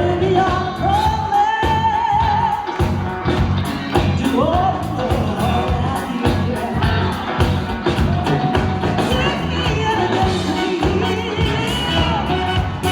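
A woman singing a song over backing music with a steady beat, holding and sliding between long notes.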